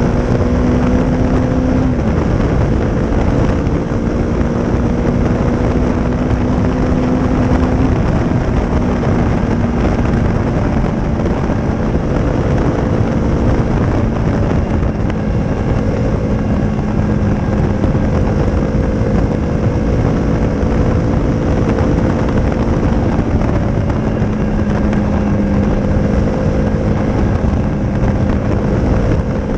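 Honda CRF250's single-cylinder four-stroke engine running through a Leo Vince aftermarket exhaust while riding, holding a steady note that drops in pitch about two seconds in and again about eight seconds in, over a constant rush of wind and road noise.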